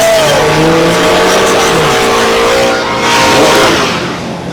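A car engine revving loudly: its pitch holds, then slides, over a dense rushing noise.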